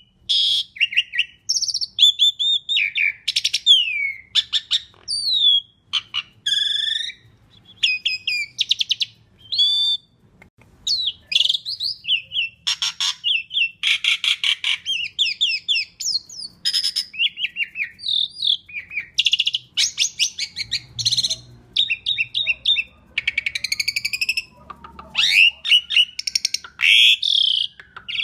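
Asian pied starling (jalak suren) singing a long, unbroken, varied song: loud whistles, slurred rising and falling notes and fast chattering rattles following one another with hardly a break.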